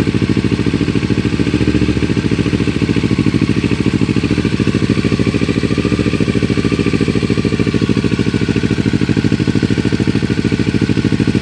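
2018 Kawasaki Ninja 650's parallel-twin engine idling steadily through a Yoshimura R77 full exhaust system with heat-wrapped headers, an even pulsing note at constant speed.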